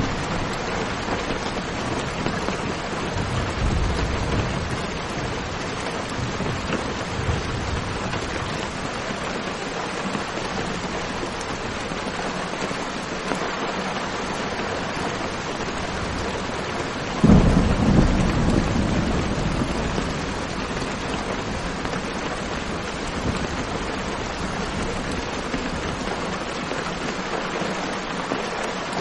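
Steady heavy rain with low rolls of distant thunder early on, then a sudden loud thunderclap just past the middle that rumbles away over a few seconds.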